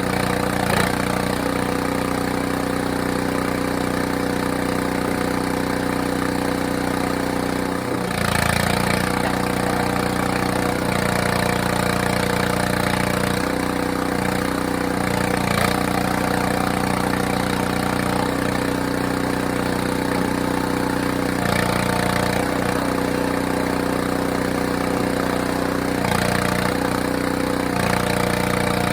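Small engine of a log splitter running steadily while firewood is split, its note shifting every few seconds.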